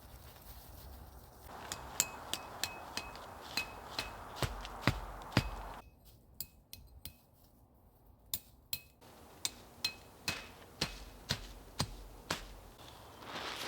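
Hammer blows driving a metal tent stake, each strike with a short metallic ring, about two a second, with a pause partway through.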